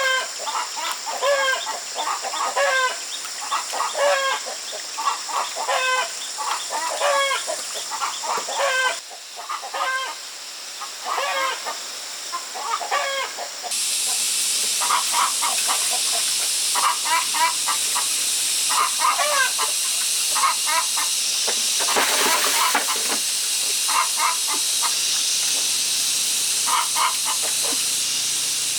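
Chickens clucking repeatedly in short calls. About halfway through, a steady loud hiss sets in and runs on under the clucking, with a brief louder rush a little later.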